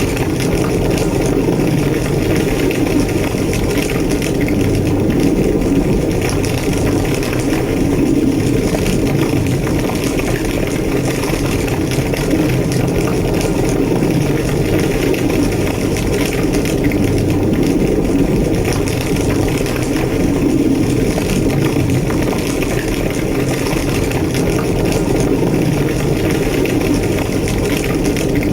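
A large structure fire burning: a steady, low roar with light crackling.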